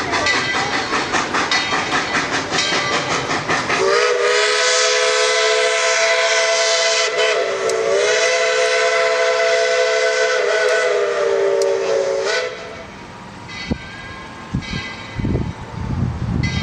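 ET&WNC No. 12, a narrow-gauge 4-6-0 steam locomotive, chuffing in a quick even beat, then blowing its whistle: one long chord of several tones lasting about eight seconds, with a brief waver midway. After the whistle cuts off, the locomotive is quieter, with low rumbling near the end.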